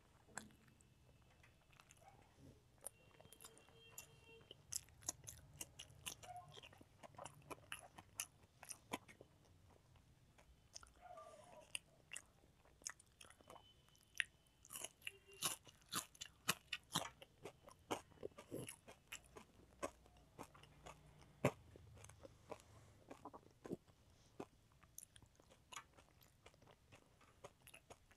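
A child chewing handfuls of rice and fried vegetables eaten by hand, with many short mouth clicks and smacks that come thicker and louder in the second half.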